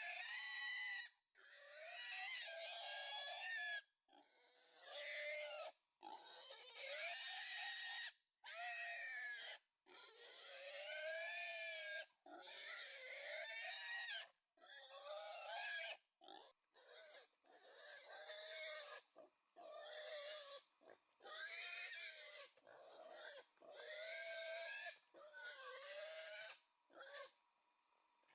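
Pig squealing over and over: long, high, wavering squeals, one every second or two, broken by abrupt short gaps.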